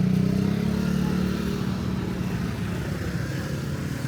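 A motor vehicle's engine running steadily close by, loudest at first and slowly fading.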